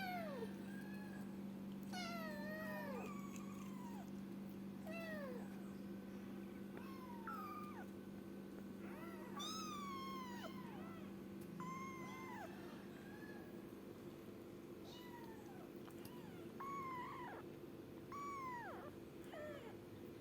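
Kitten meowing over and over, about a dozen high-pitched cries that each fall in pitch.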